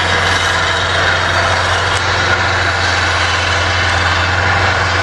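Bobcat skid-steer loader's engine running steadily while it plows snow, a constant low hum under a spread of engine noise.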